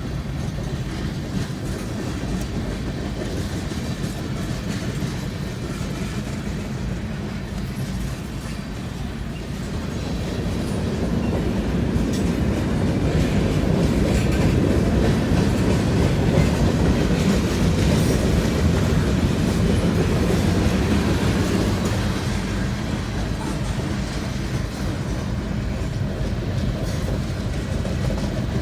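Mixed freight train rolling past, its wheels clacking steadily over the rail joints with a continuous rumble, growing louder about ten seconds in and easing slightly near the end.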